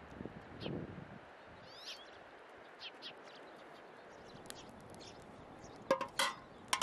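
Small birds chirping, short high calls scattered every second or so over a steady outdoor background, with a few sharp knocks near the end.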